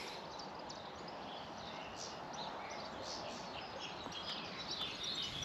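Faint outdoor background with small birds chirping now and then.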